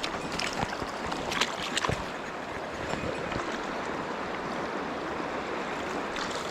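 Mountain stream water rushing steadily, with a few short clicks in the first two seconds.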